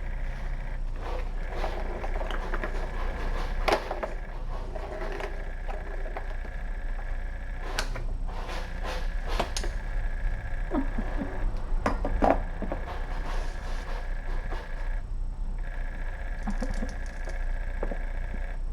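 Steady electrical hum of a room microphone, with scattered scratches and light knocks from kittens moving about and scratching, loudest around four, eight and twelve seconds in.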